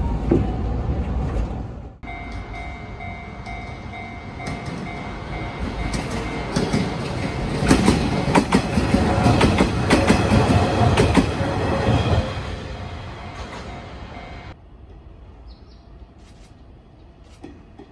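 An electric train running on rails, the wheels clattering over rail joints and a steady whine underneath. The clatter builds to its loudest around the middle, then fades and stops abruptly near the end.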